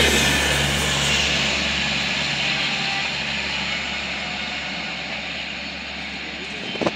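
Passenger train running past, its rushing rumble fading steadily as the last coach goes by and the train moves away. A short sharp noise comes just before the end.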